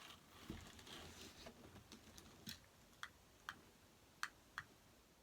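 Faint handling sounds of a sign being fastened to a mesh wreath with a pipe cleaner: light rustling, then about five short, sharp clicks in the second half.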